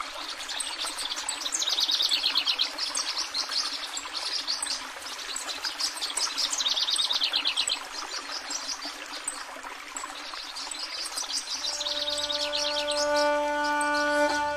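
Birds calling in repeated rapid trilling phrases over a steady outdoor background hiss. About twelve seconds in, a long held musical note with several overtones begins.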